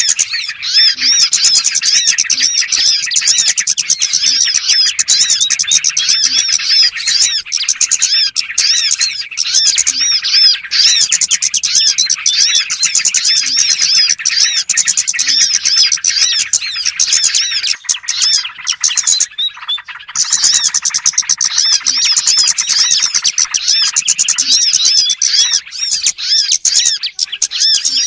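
Dense chorus of small birds chirping rapidly and without pause, a bird-lure (pikat) recording meant to draw in small birds. The chirping thins briefly about two-thirds of the way through.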